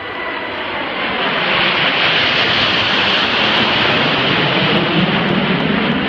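Aircraft flying a low pass: the engine noise builds, is loudest and highest-pitched with a rushing hiss about halfway through, then drops in pitch as it goes by.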